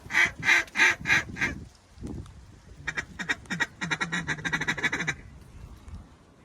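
Mallard hen-style quacking: a run of about six loud, evenly spaced quacks, then after a pause a faster string of quacks lasting about two seconds, the kind of calling used to bring circling mallards into the decoys.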